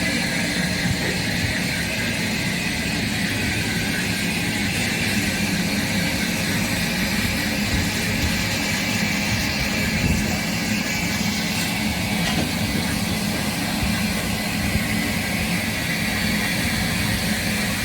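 Steam locomotive standing with steam hissing steadily over a low rumble, without any chuffing rhythm.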